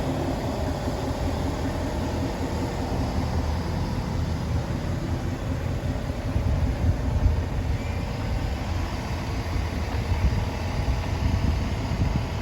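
Two-door Chevy Tahoe on the move: a steady engine and road-noise rumble.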